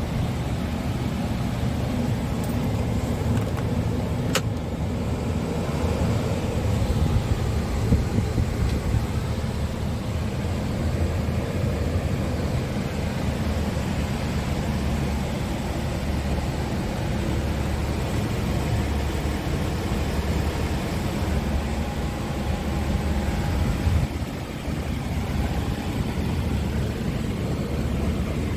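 Scania R truck's diesel engine running steadily with a low, even hum, and a single sharp click about four seconds in.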